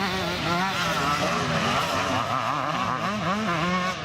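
Motocross bike engines revving, several at once, their pitch rising and falling constantly as riders open and shut the throttle.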